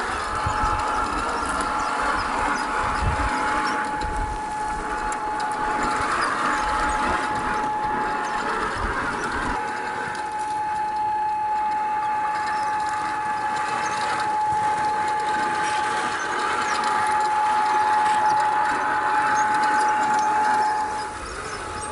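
Electric motor and gear drivetrain of a 1/6-scale RC jeep whining at one steady pitch as it drives, over rattling and a few low thumps from the chassis on rough ground. The whine stops shortly before the end.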